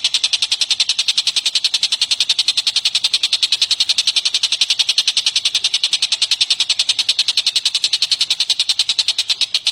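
A bird's rapid, mechanical-sounding trill: the same high, sharp note repeated very evenly about ten times a second, without a break.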